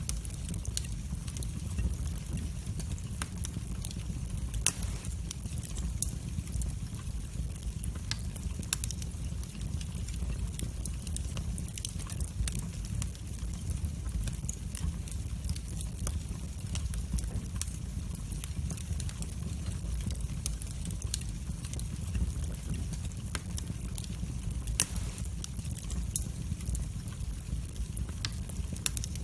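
Wood fire burning in a fireplace: a steady low rumble of flames with scattered sharp crackles, and two louder pops, about five seconds in and near the end.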